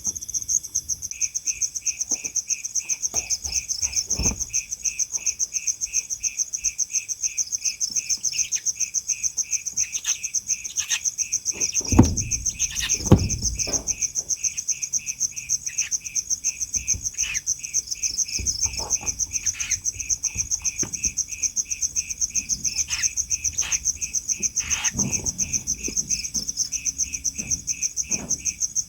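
Crickets chirping in a fast, even pulse: a higher call runs throughout and a lower one joins about a second in. Two dull knocks come near the middle and are the loudest sounds.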